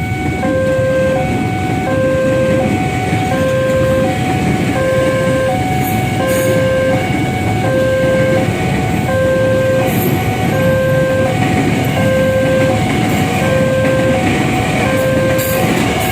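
Japanese Nippon Signal level-crossing alarm sounding its warning: an electronic tone alternating between two pitches, each note about 0.7 s, repeating steadily over a continuous rumble.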